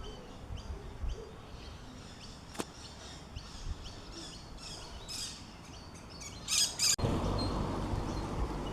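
Small birds chirping in quick, repeated short calls that grow busier and end in a pair of loud sharp calls near the end. The sound then cuts abruptly to a steady rushing noise.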